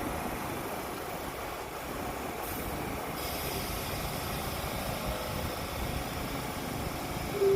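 New York subway train at the station platform: a steady rumble, with a high hiss that comes in about a third of the way through and keeps on. Right at the end a pitched tone sets in, the start of the train's two-note door chime.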